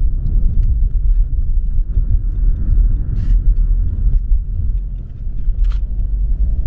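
Steady low road and engine rumble inside a moving car's cabin, with two brief sharper noises about three and five and a half seconds in.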